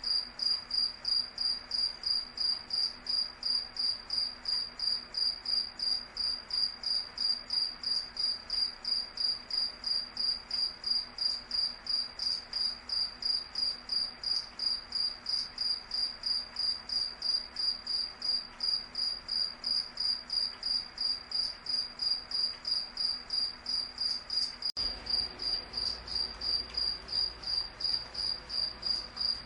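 Cricket chirping steadily: one high-pitched chirp repeating evenly, about three to four times a second.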